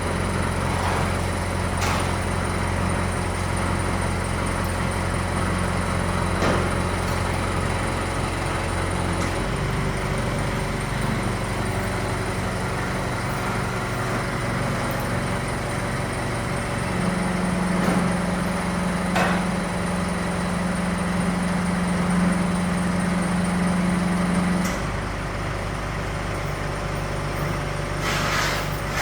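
A motor running steadily with a low hum. Its pitch and level shift in steps about 9, 17 and 25 seconds in, with a few faint clicks.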